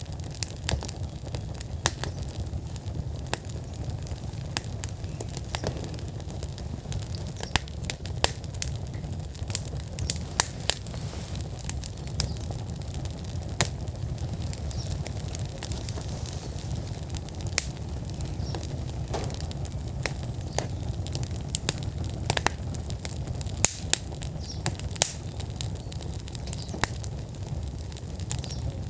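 Wood fire in an outdoor fire pit burning at full flame: irregular sharp crackles and pops from the burning logs over a steady low rumble.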